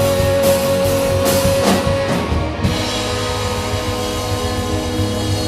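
Live rock band ending a song: drums and cymbals under a held guitar chord. The cymbals stop about two and a half seconds in while the chord rings on.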